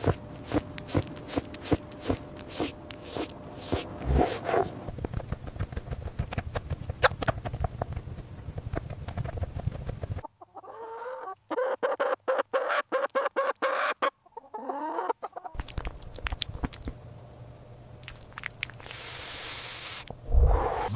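Chickens clucking, with many sharp taps over farmyard ambience; a dense run of short clucking calls comes in the middle.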